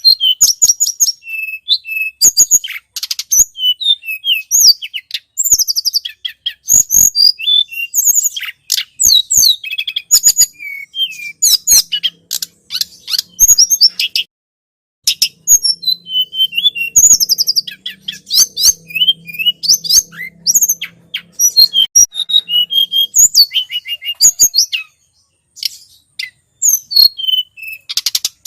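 Tledekan gunung song in a bird-lure recording: rapid, high-pitched chirps and twittering trills in quick runs, with a short pause about halfway through.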